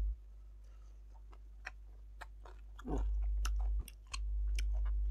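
Close-up chewing and eating: many short wet mouth clicks and smacks as a person chews food. A low hum cuts out at the start and comes back twice.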